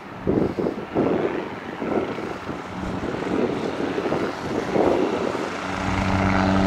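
Helicopter noise heavily buffeted by wind on the microphone. Near the end, a steady, loud droning tone from a helicopter's engine and rotors suddenly takes over.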